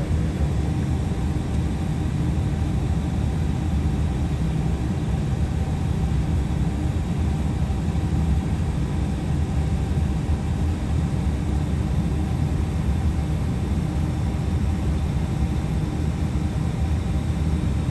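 Boeing 757 jet engines and airflow during take-off: a steady, loud, even rumble with a faint steady hum riding on it.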